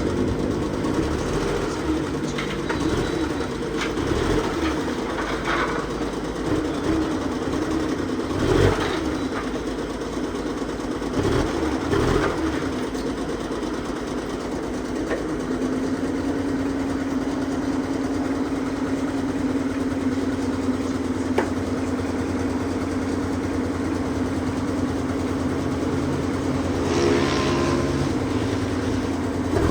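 Motor running steadily, its pitch wavering up and down in the first half and holding one steady note from about halfway on.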